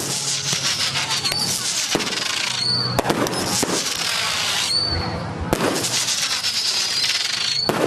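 Fireworks display: a dense crackle of bursting shells, with several sharp bangs and short whistles, some whistles falling slowly in pitch.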